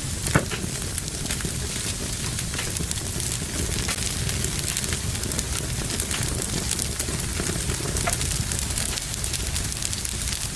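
Wood fire burning in a fireplace, crackling steadily with small snaps, and one sharp, louder pop about half a second in.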